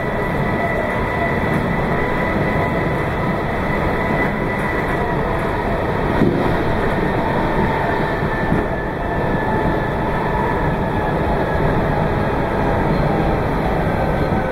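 Meitetsu 2200 series electric train running at speed, heard from on board: steady rolling and track noise with faint whine tones that drift slightly. A single knock comes about six seconds in.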